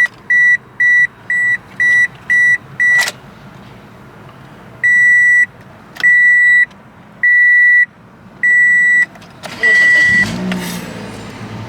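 The 2007 Toyota Matrix's dash warning chime beeps: seven short quick beeps, then five longer ones about a second apart. Near the end the car's 1.8-litre four-cylinder engine cranks and starts, settling into a steady idle.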